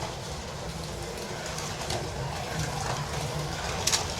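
Carrera Digital 1/32 slot cars running laps on a plastic track: a steady whir of small electric motors and tyres in the slots, with one sharp click near the end.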